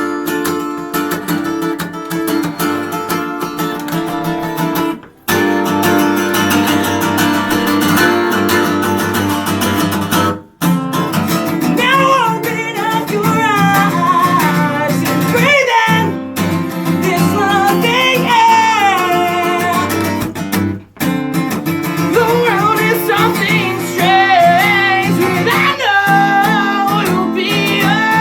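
Acoustic guitar playing a song's opening, steady chords with short stops about every five seconds. About twelve seconds in, a higher melody with sliding notes joins over the chords.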